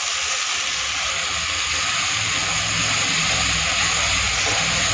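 Field beans, onion and tomato sizzling in hot oil in a metal pan while being stirred with a spatula: a steady frying hiss.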